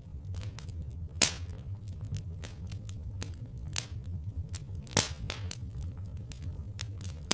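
Wood fire crackling with irregular small snaps and a few sharp pops, the loudest about a second in and at five seconds, over a low steady rumble.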